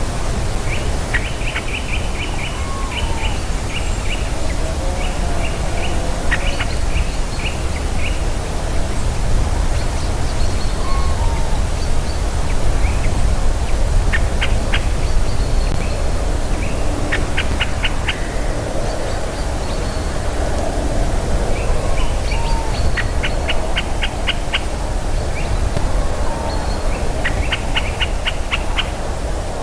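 Small birds calling: repeated quick runs of short high chips, with a few lower curved notes between them, over a steady low rushing noise.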